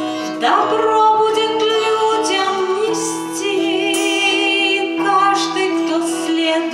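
A woman singing a song with long held notes and vibrato, accompanied by guitar.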